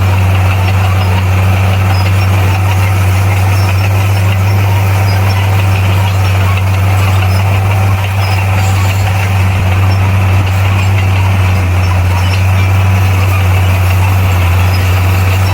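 Bulldozer's diesel engine running steadily, a deep even drone.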